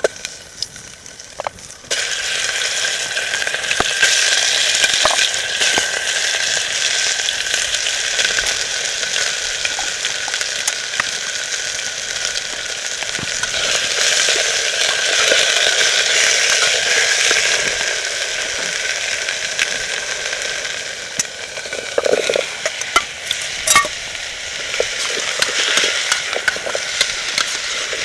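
Food sizzling in a hot pan, starting suddenly about two seconds in and carrying on steadily, with scattered clicks and light knocks of a utensil, a few louder ones near the end.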